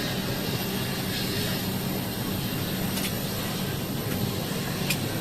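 Steady low hum and rushing air inside an airliner cabin while it is parked for boarding, with two faint clicks about three and five seconds in.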